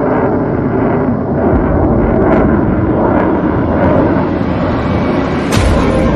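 Rocket launch roar: a loud, steady rumble with scattered crackling and one sharp crack about five and a half seconds in.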